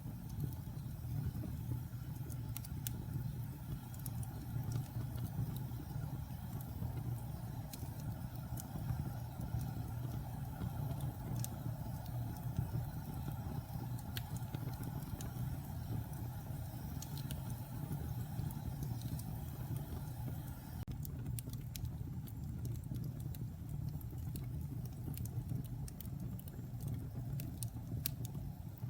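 Wood fire burning in a fireplace: a steady low roar with scattered sharp crackles and pops, which come a little more often in the last third.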